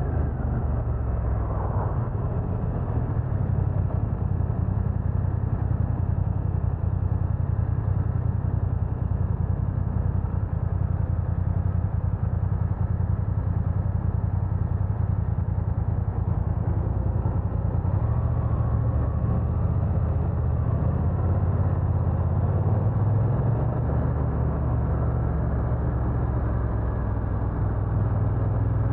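BMW F900R parallel-twin motorcycle engine running under way, with wind rush; the engine note shifts a few times as speed changes.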